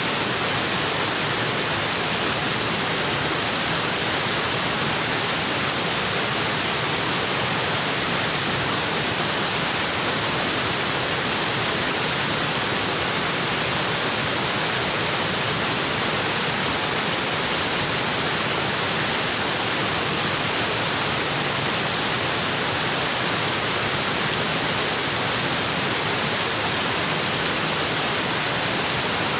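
Waterfall: water falling onto rocks in a steady, unbroken rush.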